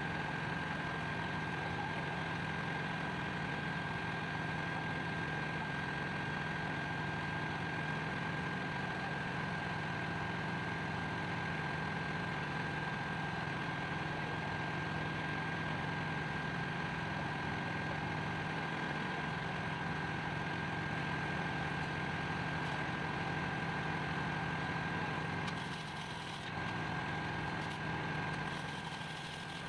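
Steady machinery drone in a ship's engine room, an even hum with a constant high-pitched whine over it, dipping a little near the end.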